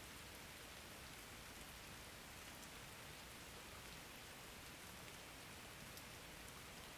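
Faint, steady rain falling: an even hiss with scattered light drop ticks.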